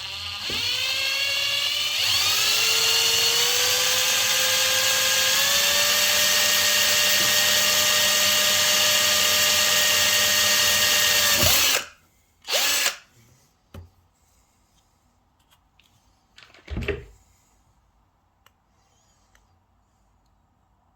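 Small handheld power tool motor spinning up, its whine rising in pitch over the first few seconds, then running steadily and stopping abruptly just before halfway. Two brief short runs follow, one just after the stop and one later, with a few faint clicks.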